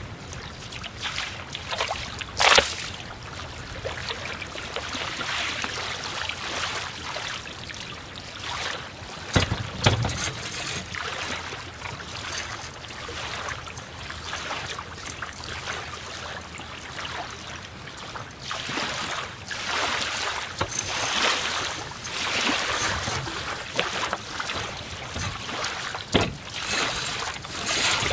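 Wind and water lapping, a shifting hiss, with a few sharp knocks: one early on, one around ten seconds in, and two near the end.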